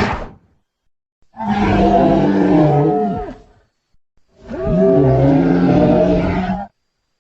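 Custom creature sound effects for a gorilla-giraffe hybrid beast: the end of one call, then two long, loud animal-like calls about a second apart, each wavering in pitch toward its end.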